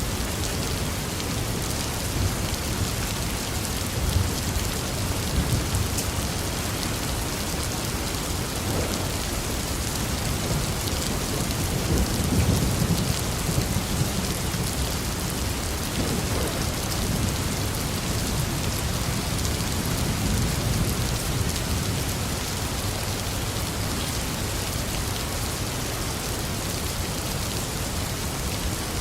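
Steady rain falling, with low rumbles of thunder swelling a few times, the strongest about twelve seconds in.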